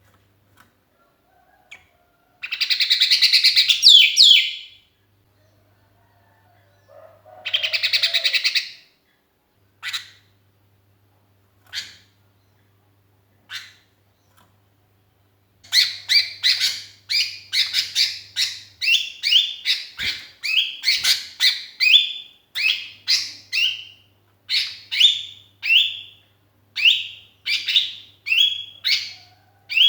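Sooty-headed bulbul (kutilang) calling loudly. Two harsh chattering bursts come in the first ten seconds, then a few single notes, then from about halfway a rapid, steady run of short, sharp, falling notes.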